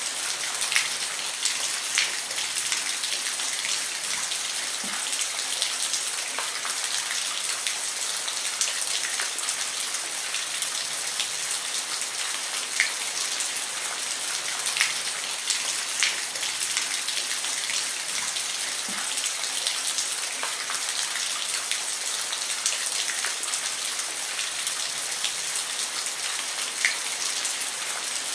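Steady rain falling on a roof: an even hiss of rainfall with scattered louder individual drops striking the surface every second or two.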